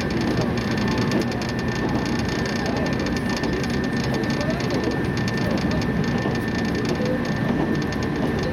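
Inside the cabin of a JR West 115-series electric train running at speed: a steady rumble of wheels on rail with a thin, steady high whine over it.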